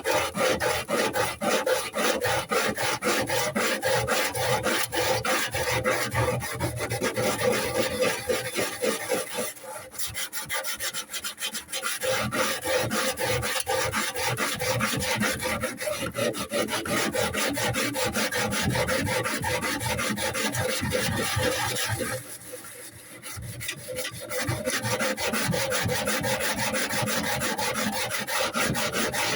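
Kitchen foil being rubbed quickly back and forth against the rusty metal interior of a microwave, a steady rasping scrub to scour off the rust where the enamel has chipped away. The scrubbing eases off briefly twice, about ten seconds in and again a little after twenty seconds.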